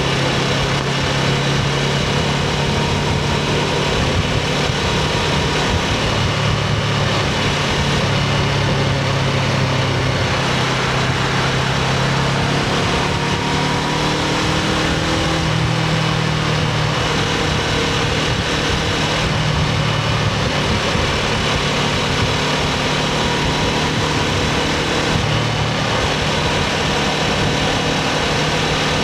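Honda CBR500R's parallel-twin engine running through its stock exhaust, holding a fairly steady engine speed that drifts gently up and down in pitch.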